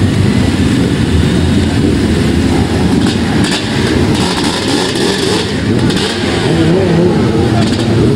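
Racing motorbike engines running and revving at the circuit, a loud continuous engine noise.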